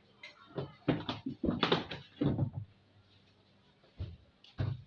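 A series of knocks and clatters, several close together in the first half and two more near the end, as parts of a washing machine are handled and fitted together during reassembly.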